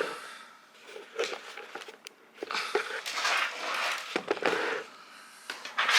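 Rustling and handling noise of clothing and packaging being moved about, in irregular swishes with a few light clicks.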